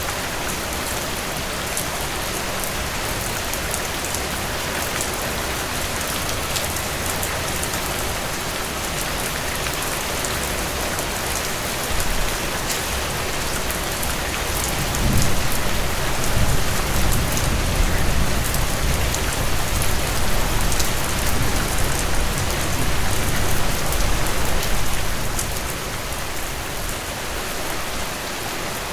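Heavy rain pouring steadily in a dense, even hiss. About halfway through, a low rumble swells up and lasts roughly ten seconds before fading.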